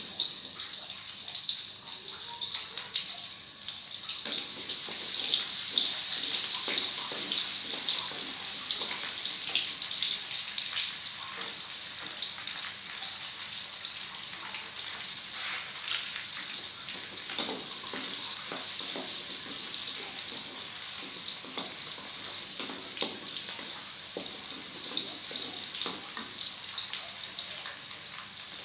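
Sliced shallots and garlic frying in hot oil in a wok: a steady sizzle with scattered crackling pops, starting suddenly as the shallots hit the oil.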